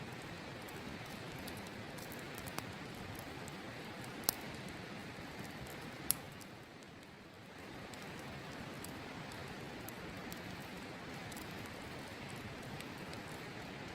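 Open wood campfire crackling, with small ticks throughout and a few sharp pops, the loudest about four seconds in and another about six seconds in, over the steady rushing of a river.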